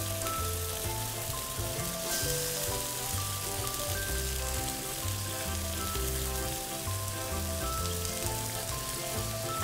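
Hung lay curry and vegetables sizzling in a hot wok, a steady hiss of frying, with background music playing over it.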